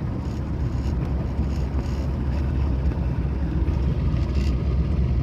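Boat motor running steadily with a low, even drone, with some noise from water and wind over it.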